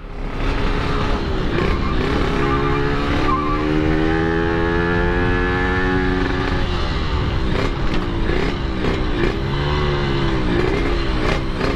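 Yamaha RX King two-stroke single-cylinder engine running through an aftermarket exhaust while riding at part throttle. The pitch holds fairly steady for a few seconds, then rises and falls gently with the throttle.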